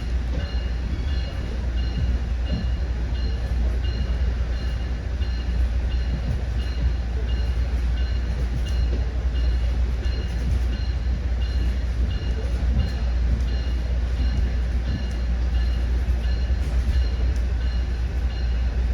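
Commuter train running steadily along the line, a continuous low rumble of wheels on rail. Faint short high tones pulse about twice a second over it.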